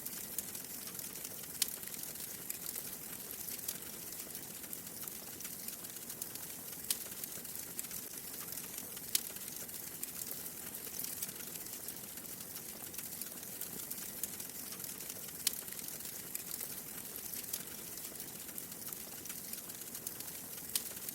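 Wood fire in a fireplace crackling: a steady soft hiss with scattered small pops and snaps, a few sharper ones standing out about four times.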